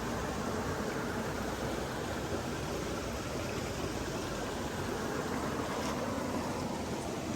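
Running water rushing steadily and evenly, as from a stream or small waterfall.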